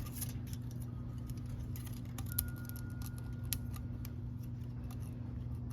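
Small, irregular metallic clicks and ticks of feeler gauge blades and hand tools being handled at a motorcycle engine's valve tappets, over a steady low hum.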